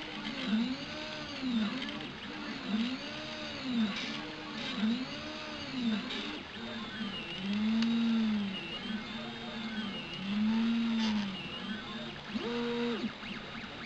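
Stepper motors of a Prusa i3–type (Graber i3) 3D printer whining through a series of print-head moves. Each move is a tone that rises and then falls in pitch as the motor speeds up and slows down, about one a second. Near the end comes a short move held at a steady higher pitch.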